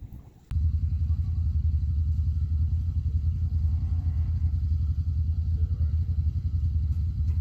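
A low, steady engine rumble that starts abruptly about half a second in, after a click.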